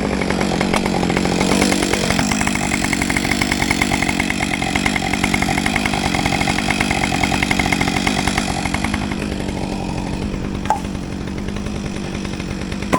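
Gasoline chainsaw running steadily. Its pitch rises about two seconds in and falls back near nine seconds, as it is revved and eased off. A single sharp knock comes near the end.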